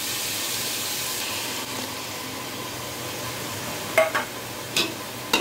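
Onion paste frying in hot oil in a metal pot, a steady sizzle. Two short knocks come near the end as the ginger-garlic-green-chilli paste is added.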